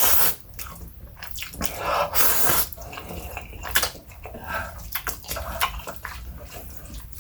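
Close-miked slurping and chewing of instant chow mein noodles: two longer wet slurps in the first few seconds, then quieter wet chewing and lip smacks.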